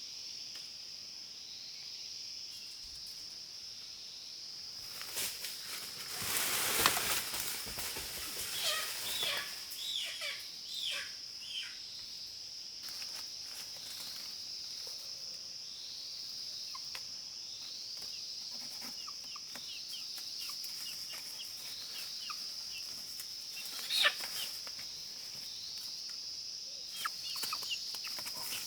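Wild chicken clucking and squawking in a run of short falling calls, after a burst of rustling about five seconds in, over a steady high-pitched insect drone. A single sharp snap stands out late on.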